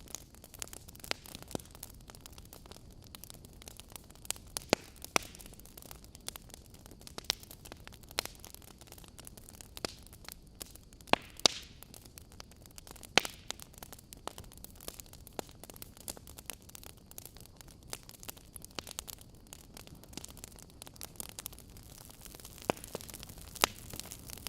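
Wood fire crackling in a fireplace: irregular sharp pops and snaps over a steady soft hiss, with a few louder pops near the middle.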